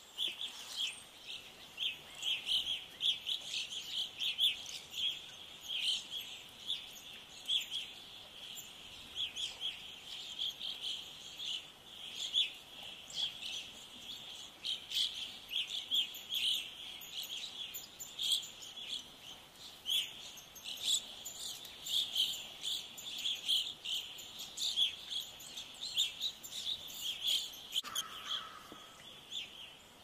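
A flock of small birds chirping, many short high calls overlapping in a dense, unbroken chatter, with a brief lower note near the end.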